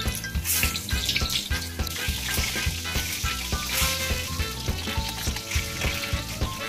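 Flour-coated minced pork patties sizzling in hot fat in a frying pan, the sizzle swelling about half a second in and again around four seconds in. Background music with a steady beat runs underneath.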